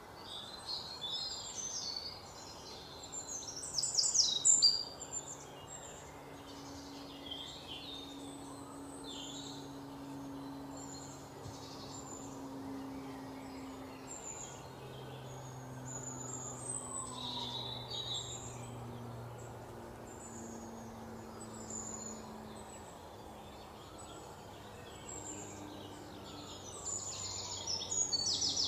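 Birds chirping and calling repeatedly in the background, with a cluster of louder chirps about four seconds in and more near the end, over a faint low steady hum.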